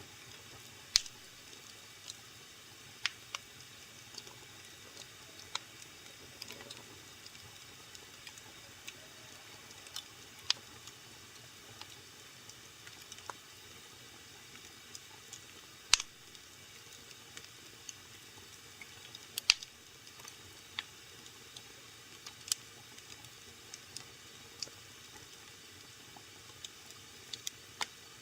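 Wood fire burning in a fireplace: a faint steady hiss with sharp, irregular crackles and pops, a few of them much louder than the rest.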